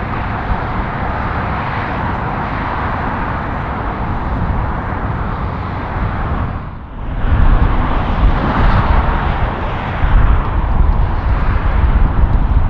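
Jet airliner engine noise, a steady roar-like haze. It drops away briefly about seven seconds in, then returns louder and deeper.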